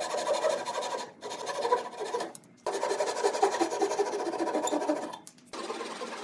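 Rubbing and scraping of handwork in three short clips, each cut off suddenly, followed near the end by a steady machine running.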